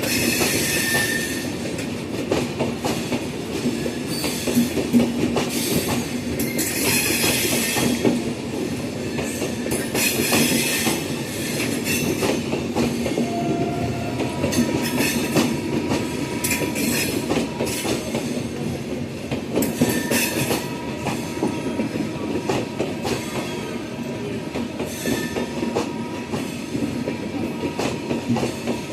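Passenger express train pulling out and rolling past, its coach wheels clattering over rail joints, with brief high wheel squeals every few seconds.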